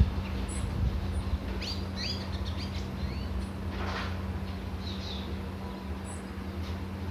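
Small birds chirping and calling in short, quick notes, busiest in the middle, over a steady low hum.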